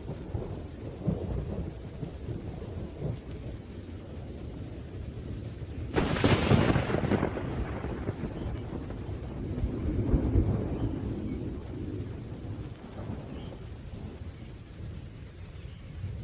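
Thunderstorm: low rolling thunder rumbles over steady rain. About six seconds in a sharp thunderclap cracks and rolls away over a couple of seconds, and a second swell of rumbling comes around ten seconds in.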